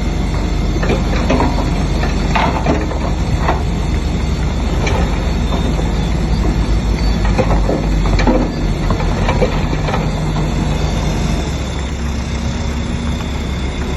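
Crawler bulldozer's diesel engine running steadily under load, with its steel tracks clanking and squeaking in irregular bursts.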